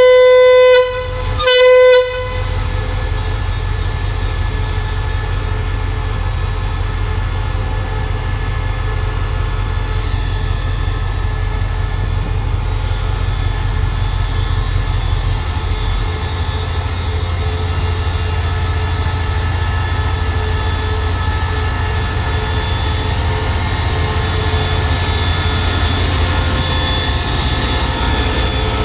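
Diesel locomotive horn sounds two short blasts, the second shorter, as the train departs. The locomotive's diesel engine then runs with a steady low drone as the train pulls out.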